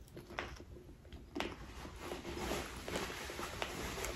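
Close-miked chewing of a mouthful of sushi: wet mouth sounds with many small, irregular clicks and crackles. The chewing gets busier and louder about a second and a half in.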